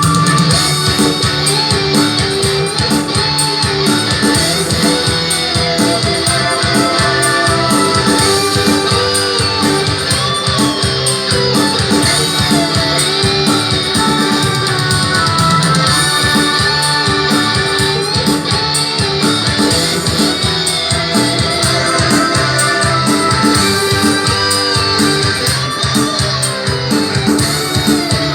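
A music track played loud through an 8-inch loudspeaker in a sound check.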